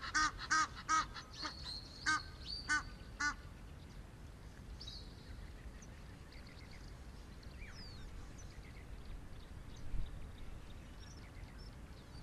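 A bird calling in a loud, fast series of repeated pitched notes, each rising and falling, about three a second. The calls slow and stop about three seconds in, after which only faint high chirps of small birds remain.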